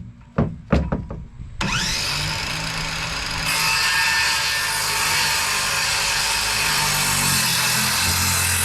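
A few knocks as a board is handled, then an electric power saw starts about a second and a half in and runs steadily, its sound growing fuller about two seconds later as it cuts through a wooden board for a concrete form.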